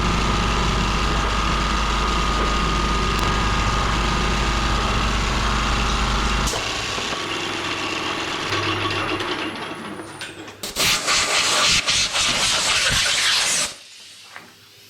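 Harrison metalworking lathe running with a steady hum and low drone, switched off about six and a half seconds in and winding down with a falling whine. Near the end comes about three seconds of loud, harsh rasping noise.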